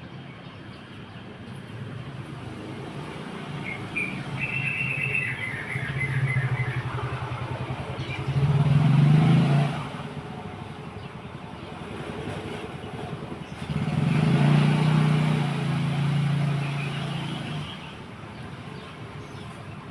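Two motor vehicles passing, each engine note swelling and fading, the louder peaks about nine and fifteen seconds in. A sparrow chirps a few times about four to six seconds in.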